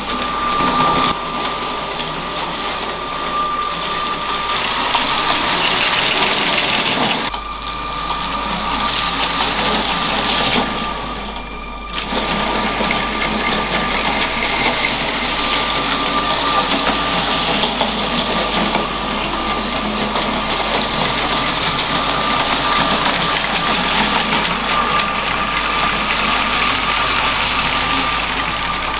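LEGO train's small electric motor running with a steady whine, over the rattle of its wheels on plastic track. The sound dips briefly twice.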